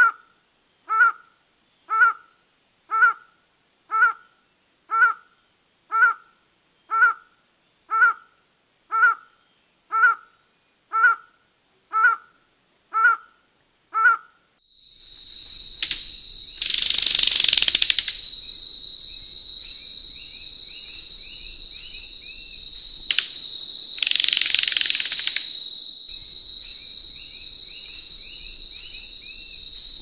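A cloud-forest bird gives a nasal, caw-like call about once a second, some fifteen times, and stops about halfway through. A steady high-pitched insect-like drone then takes over, with faint chirping under it and two loud rushing bursts of a second or two each.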